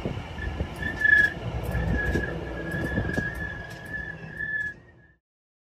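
Train moving through the station: a low rumble with scattered clicks under a steady high-pitched whine, loudest about a second in. The sound cuts off abruptly near the end.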